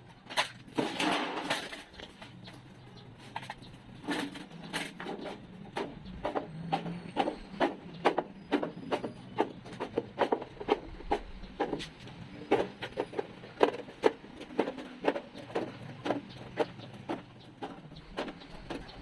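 Repeated sharp knocks and clicks from hand tools working on a vehicle's rotted floor, coming irregularly about one or two a second, over a faint low hum.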